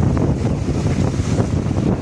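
Strong wind buffeting the microphone in a dense, rumbling rush, over waves on the dam's water splashing in.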